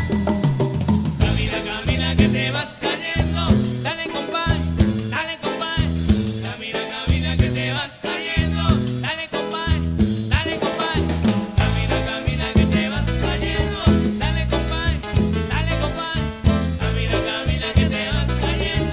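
A band playing upbeat music with drum kit, a strong bass line and singing.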